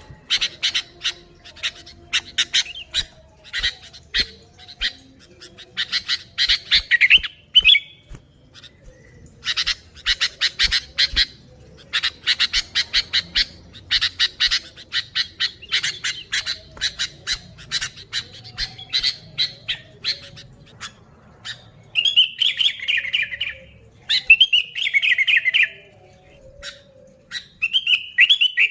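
Sooty-headed bulbul (kutilang) calling in long runs of rapid, sharp chattering notes, with short warbled phrases near the end.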